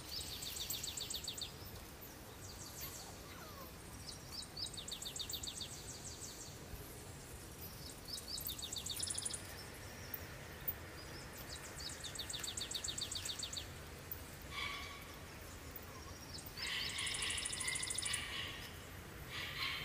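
A songbird singing a rapid, high trill about a second long, repeated every few seconds, with other birds chirping in the last few seconds.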